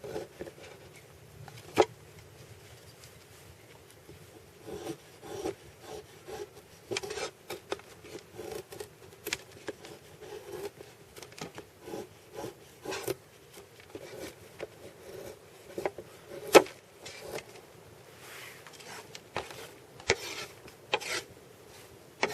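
Knife blade shaving and cutting thin wood chips for kindling, in irregular scraping strokes against a wooden board, with occasional sharp knocks, the loudest about two-thirds of the way through.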